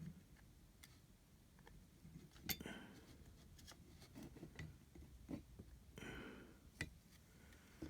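Near silence with a few faint, scattered clicks and taps from handling the charger case and its cable, the clearest about two and a half seconds in and again near the end.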